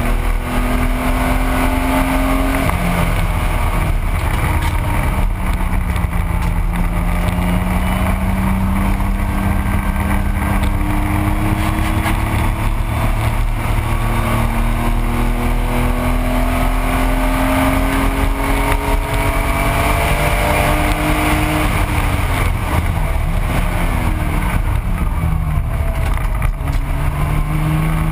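1985 Porsche 911's air-cooled flat-six engine under racing load at speed, its note climbing slowly as the car gains speed, dropping sharply about three seconds in and again around twenty-two seconds, then climbing again near the end, over a steady rush of wind and road noise.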